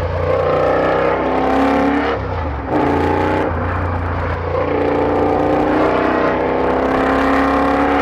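KTM 1190 R's V-twin engine accelerating through an unbaffled Bursig exhaust tip, the pitch climbing steadily. There is a short drop and jump in level about two and a half seconds in, as at a gear change.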